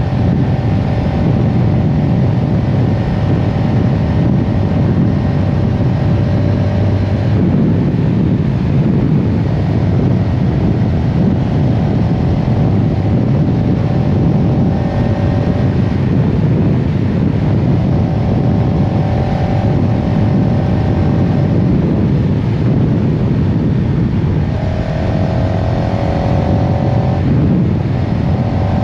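CFMoto CL-X 700 Heritage's parallel-twin engine under way, its note climbing steadily and then breaking off and starting lower again several times, as with successive upshifts, over a heavy rush of wind noise.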